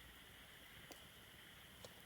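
Very faint campfire crackle: two small pops from the burning wood over a steady low hiss.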